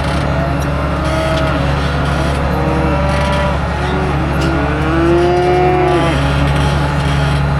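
Engine running steadily, with cattle bawling over it in several long, arching calls, most of them in the middle of the stretch.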